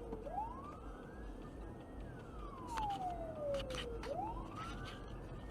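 Emergency vehicle siren in wail mode, its pitch rising slowly and falling again in two full cycles of about four seconds each, over a low road rumble.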